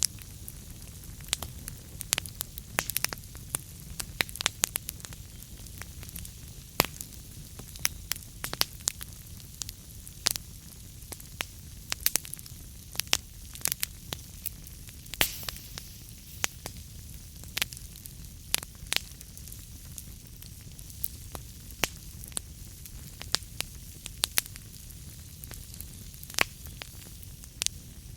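Wood fire burning in a fireplace, crackling with frequent sharp pops at irregular intervals over a steady low rumble and hiss.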